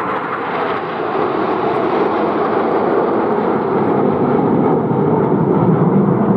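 A fixed-wing aircraft flying past, its engine noise steady and slowly growing louder toward the end.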